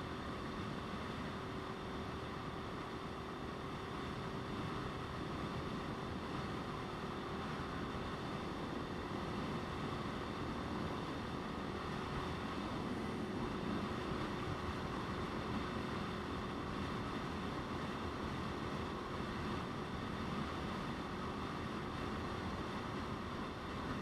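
Motorcycle engine running at a steady speed under constant wind rush on the microphone, with no change in revs.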